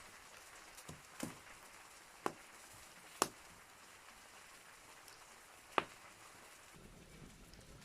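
Wood fire in a fireplace crackling: a soft steady hiss with four sharp pops, the loudest about three seconds in.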